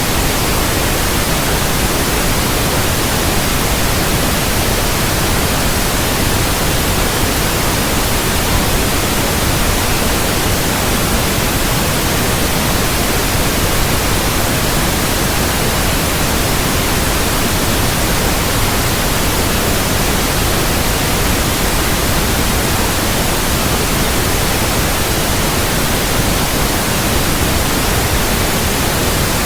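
Steady, unbroken white noise, an even hiss across the whole range, used as a baby sleep sound.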